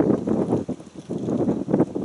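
Wind buffeting the microphone in irregular gusts, a rough low rumble that swells and fades.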